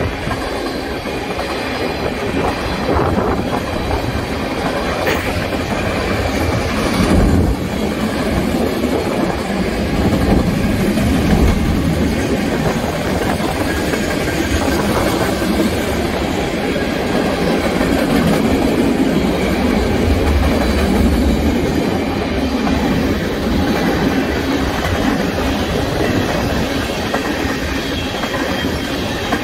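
Tank cars of a BNSF freight train rolling steadily past, a continuous rumble of wheels on rail with occasional clicks as the wheels cross rail joints.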